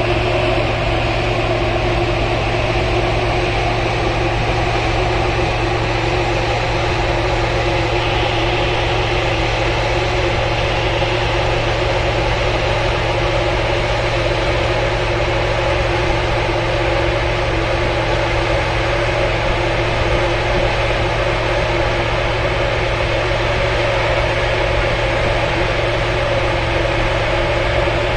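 Steady, unchanging drone of a ship's engines and machinery, a low hum over a constant rushing noise.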